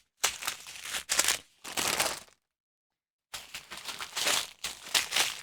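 Small plastic bags of diamond-painting drills crinkling and rustling as they are handled. The rustles come in irregular bursts, with a pause of about a second midway.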